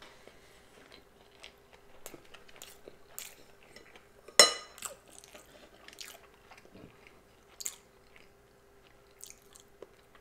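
Close-miked chewing of a spicy salmon sushi roll: soft wet mouth sounds and scattered small clicks. About four and a half seconds in comes a single sharp tap with a brief ring, the loudest sound here.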